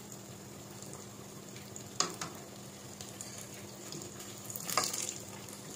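Battered eggs (kwek kwek) sizzling steadily as they deep-fry in a pot of oil. A spoon knocks against the pot twice about two seconds in, and again several times near the end as the eggs are turned.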